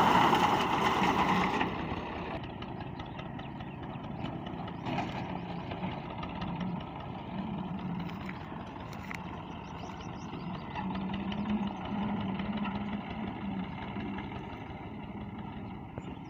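Old Massey Ferguson tractor engine running steadily. It is loud for about the first two seconds, then quieter and more muffled for the rest.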